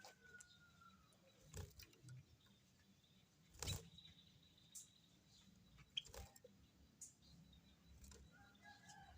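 White-headed munia giving faint thin whistled calls, one drawn-out note at the start and a few short notes near the end, with a few sharp knocks in between.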